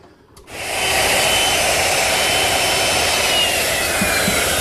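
Power drill starts about half a second in and runs steadily, boring a through hole in a mahogany handle, its faint whine slowly dropping in pitch as the bit cuts.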